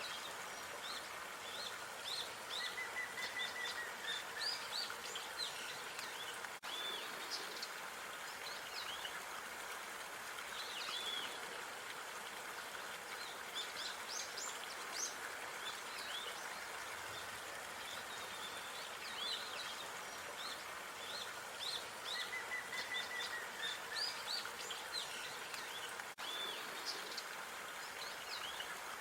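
Park ambience: small birds chirping and calling, with quick high notes coming in clusters, over a steady hiss of background noise. The sound drops out briefly twice.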